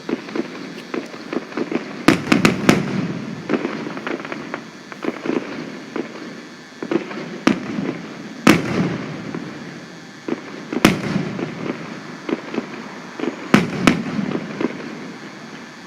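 Fireworks going off: sharp bangs over continuous crackling and popping. There is a quick run of three bangs about two seconds in, single loud bangs spread through the middle, and a close pair near the end.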